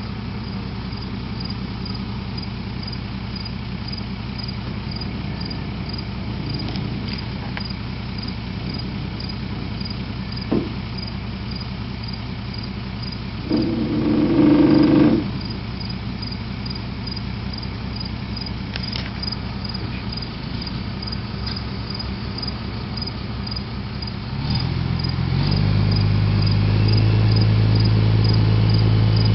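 Crane truck's engine idling steadily, with a brief louder tone about halfway through; past the three-quarter mark the engine speeds up and holds the higher speed, as when it is throttled up to drive the crane's hydraulics. Crickets chirp steadily, about twice a second, throughout.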